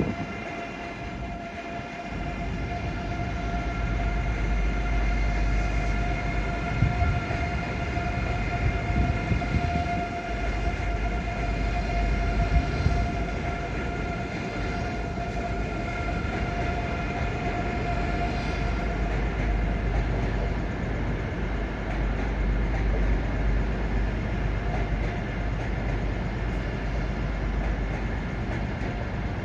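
Eurostar Class 374 electric train at the platform: a steady low rumble with a constant high-pitched whine, the whine fading after about twenty seconds.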